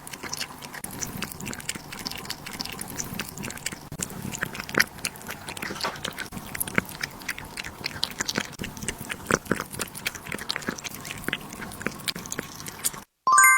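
An animal chewing and crunching food, a rapid, uneven run of crisp crunches. About 13 seconds in it cuts off sharply and a short bright chime rings out.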